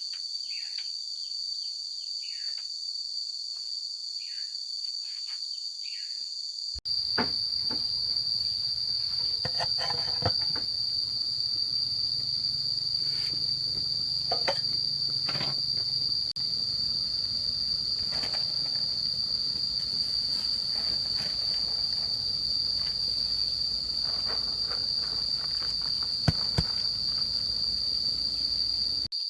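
Steady high-pitched chorus of insects trilling without a break. About seven seconds in the background changes abruptly and becomes noisier, with scattered light knocks and clicks under the insects.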